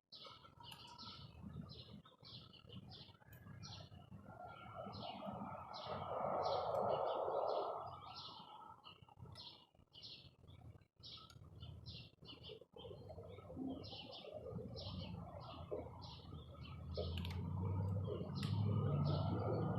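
A small bird chirping over and over in short high chirps, about two a second. A rushing noise swells in the middle, and a low rumble comes in near the end.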